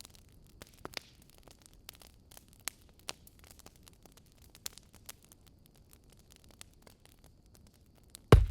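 Wood fire crackling, with small irregular pops and snaps. Near the end, one loud, sharp knock.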